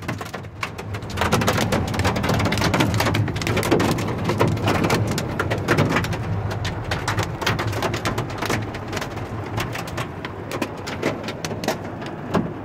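Heavy rain mixed with hail, a dense irregular run of sharp taps over a steady wash of rain noise, with a low steady hum underneath.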